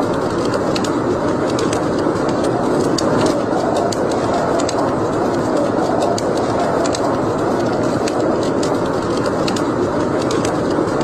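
Wood fire in a fireplace crackling, sharp pops and snaps scattered over a steady rushing noise.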